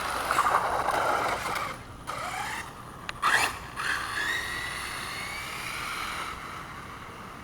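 Engine of a 1/5-scale Redcat Rampage MT monster truck running at high throttle on a speed run. It gives a couple of short noisy bursts, then a whine that rises in pitch as the truck accelerates away and fades near the end.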